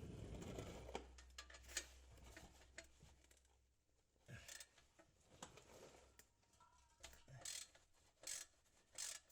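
Faint, scattered clicks and metallic scrapes of a socket wrench working a rusty exhaust flange bolt, with a low hum in the first few seconds.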